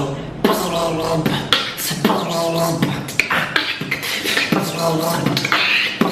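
Beatboxer's vocal 'UFO' sound effect: a throaty uvular R rolled through closed teeth with the voice on. It is repeated in short phrases about every half second, with hissing between them.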